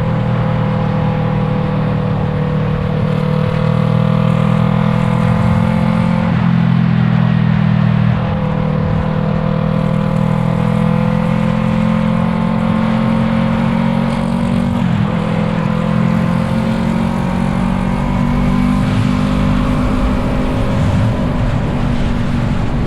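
Yamaha MT-03's 321 cc parallel-twin engine running through an Arashi aftermarket exhaust while riding, heard from on the bike. The engine note holds fairly steady and shifts pitch, with brief breaks about six and fifteen seconds in.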